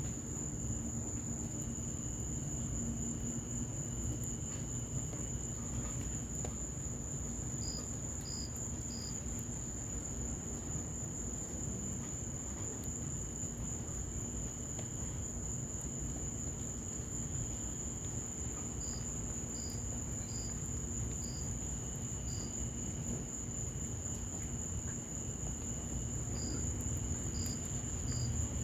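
Crickets trilling: one continuous high-pitched trill, with short chirps in small groups from another insect, over a steady hiss of rain and a patio fire with faint scattered crackles.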